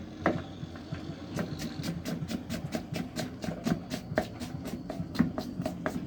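An uneven series of sharp clicks and taps, several a second, over a low steady hum.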